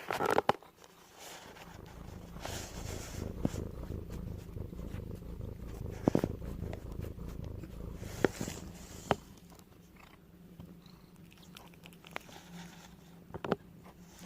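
A cat purring close by, a low rhythmic rumble that fades out after about ten seconds, with a few sharp clicks over it.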